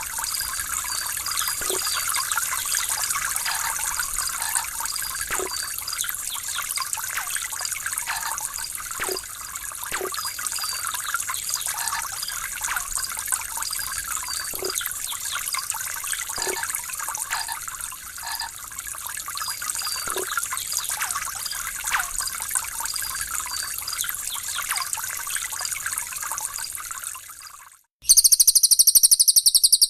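Trickling, gurgling water runs steadily. Just before the end it cuts out and a loud, rapid, high-pitched bird call starts abruptly.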